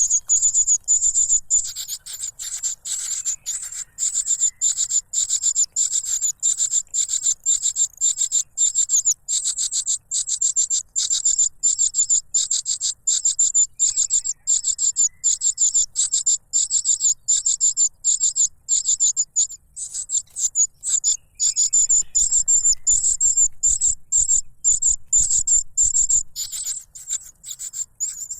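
Cuckoo chick begging for food: a loud, unbroken run of short, high, thin calls, about three or four a second.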